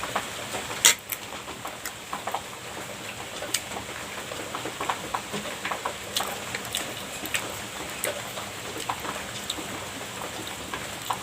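Eating a cream pastry: small irregular clicks and crackles of cutlery, packaging and chewing, with one sharper click about a second in, over a steady hiss.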